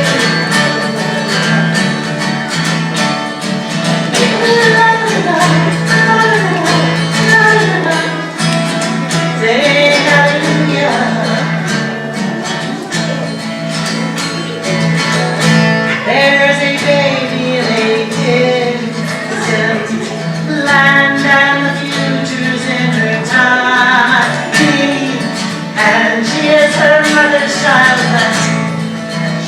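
Live folk song break: acoustic guitar playing under a melodic lead line with wordless vocal-like phrases, no lyrics sung.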